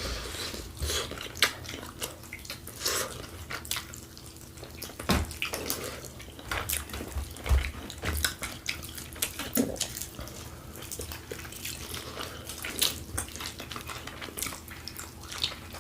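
Close-miked chewing and wet mouth sounds of people eating: irregular smacks and clicks throughout.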